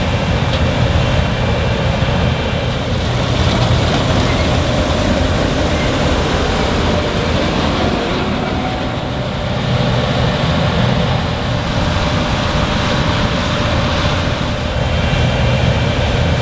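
Large farm machine's diesel engine running steadily under work, with a strong low hum and a steady higher whine from the machinery.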